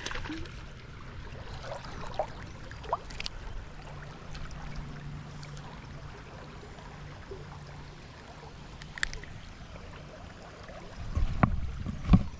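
Creek water running steadily, with a few small clicks and two heavy knocks near the end.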